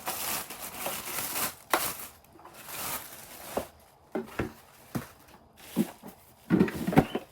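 Packaging rustling and crinkling as the feeder's accessories are handled out of the box, followed by several short taps and knocks of items being moved and set down.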